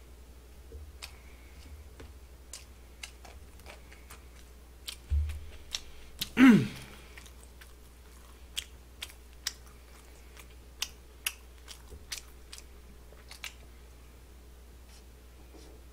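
Close-up chewing and biting of fried chicken, with scattered sharp clicks throughout. About six seconds in comes a brief, loud sound that drops sharply in pitch.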